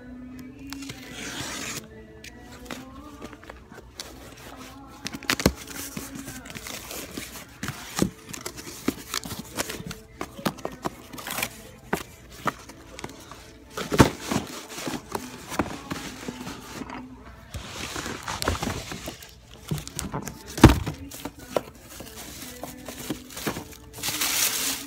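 Die-cast cars in plastic blister packs being rummaged through in a cardboard shipping box: scattered clicks, scrapes and crinkling rustles, with a few sharper knocks.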